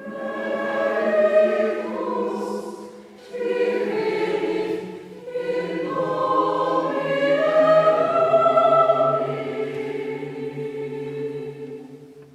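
Mixed choir singing sustained chords of a Mass setting in three phrases, with brief breaks about three and five seconds in, dying away near the end.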